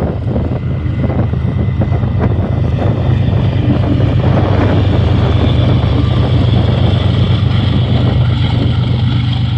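BNSF diesel locomotive at the rear of a container train running as it passes close, a loud steady engine drone that grows a little louder over the first few seconds.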